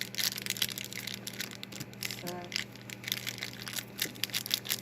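Plastic food packaging crinkling and being crushed in the hands, a dense run of irregular crackles, over a steady low electrical hum.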